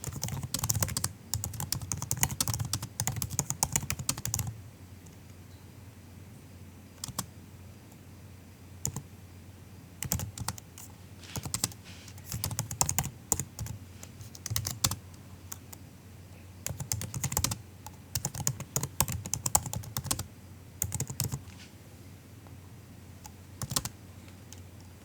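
MacBook keyboard being typed on softly, in bursts of quick keystrokes separated by pauses of a few seconds with the odd single key press.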